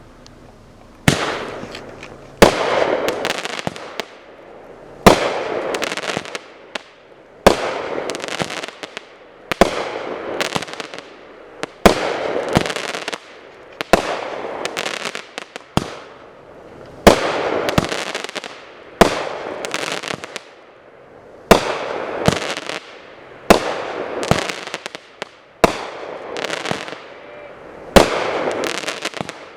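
Rain of Fire Premier 500-gram firework cake firing shot after shot, starting about a second in and going on at roughly one shot a second. Each shot is a sharp report followed by a crackling burst that fades away.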